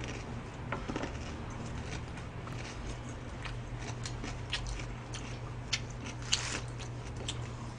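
Faint eating sounds of someone chewing food, with scattered small clicks and crunches, over a steady low hum.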